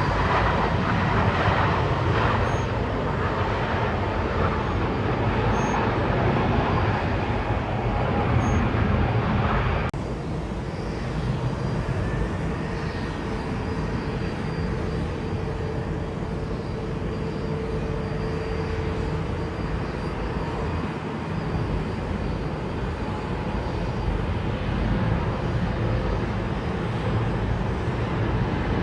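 Jet airliner engines running at an airport, a steady rumble. About ten seconds in it breaks off suddenly and continues slightly quieter.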